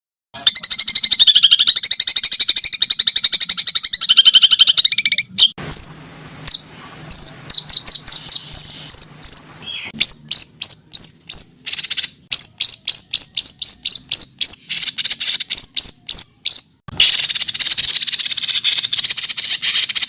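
Songbird song for training caged birds: a fast, buzzy, insect-like trill, then a run of sharp, high chips that speed up, then the buzzy trill again about three seconds before the end. It starts abruptly after a moment of silence.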